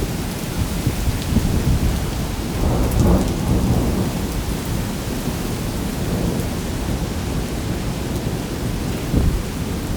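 Heavy downpour in strong wind: a dense, steady rush of rain with a deep rumble underneath. The rumble swells about three seconds in and again briefly near the end.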